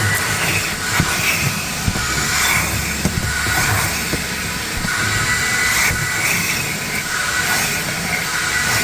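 Car wash vacuum running steadily, with a whine over a rushing of air that swells and dips as the nozzle moves, and a few sharp clicks.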